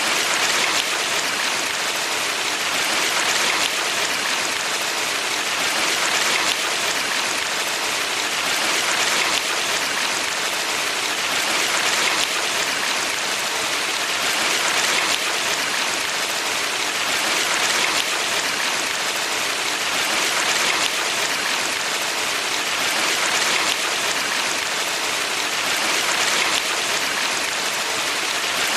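Steady rushing of a valley stream, a dense even hiss that swells gently about every three seconds.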